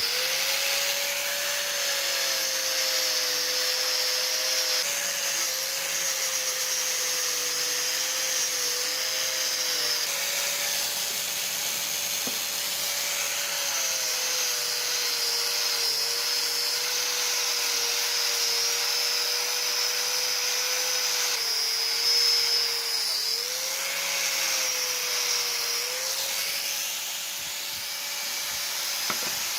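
Electric power tool motor running steadily, its tone dipping slightly now and then as if under light load, with a hiss over it.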